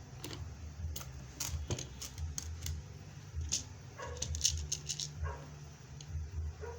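Irregular sharp clicks and taps from a rivet-setting machine and beads being handled, bunched together near the middle, over a low steady hum. Three short falling squeaks come about four, five and nearly seven seconds in.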